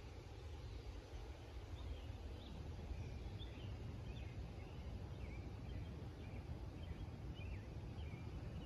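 Outdoor ambience: a steady low rumble under many short, scattered chirps of small birds.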